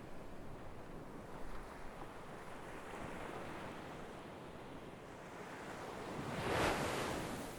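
Sea waves washing in, a steady hiss of surf with one wave swelling and breaking loudest near the end.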